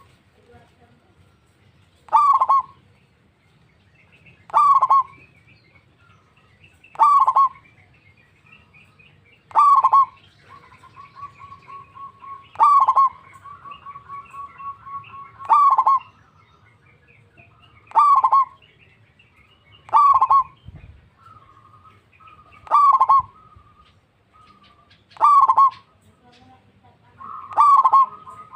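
Zebra dove (perkutut) calling over and over, one short cooing phrase about every two and a half seconds. Between calls a softer, fast trill runs for several seconds in the middle and again near the end.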